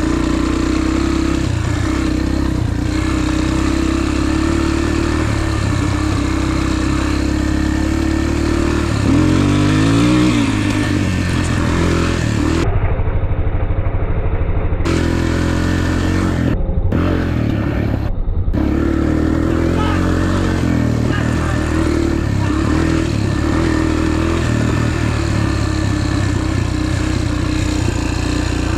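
Dirt bike engine running steadily under way, revving up with a rising pitch about nine seconds in.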